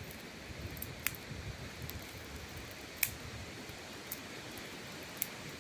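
Small campfire of birch bark and thin dry twigs burning with a steady hiss and occasional sharp crackles, four pops in all, the loudest about three seconds in.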